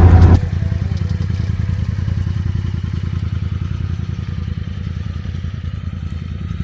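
Dodge Dakota pickup's engine running at low revs while crawling a rough trail: a steady low rumble with a fast even pulse. It is louder at first and drops off sharply about half a second in.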